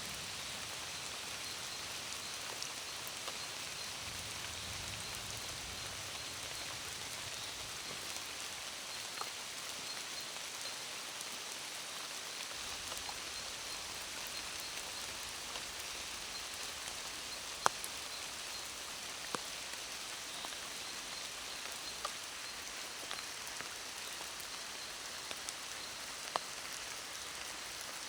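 Steady rain falling in a forest, a continuous even hiss, with a few louder single drop hits standing out here and there.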